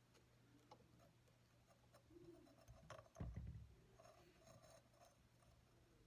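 Near silence with a low hum, broken by a few faint clicks and one soft knock about three seconds in, like small tools or the ring being handled on a bench.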